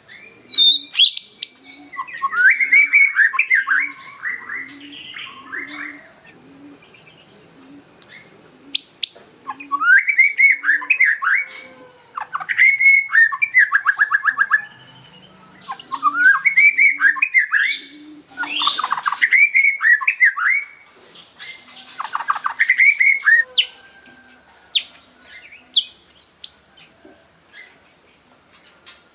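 Young white-rumped shama singing its basic song, just past its speckled juvenile plumage. It sings in bursts of rapid, varied whistled and chattering phrases, each one to three seconds long, with short pauses between. A steady high whine runs underneath throughout.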